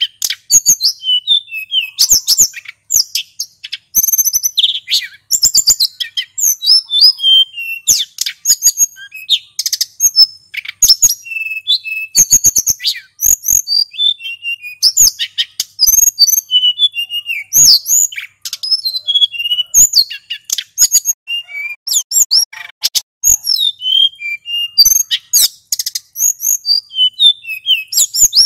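Male sulingan gunung singing nonstop in a fast, high-pitched run of varied chirps, trills and whistled glides.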